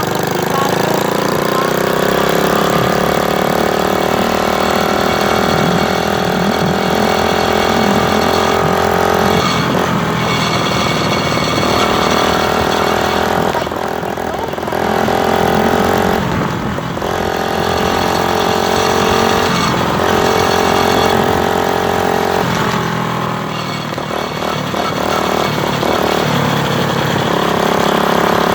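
Motorcycle engine running while being ridden. Its note climbs at the start, then holds steady, with several brief dips where the throttle comes off.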